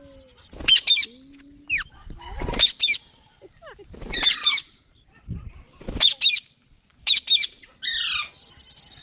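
A green parrot giving short, harsh squawks, about eight of them with pauses in between, some coming in quick pairs.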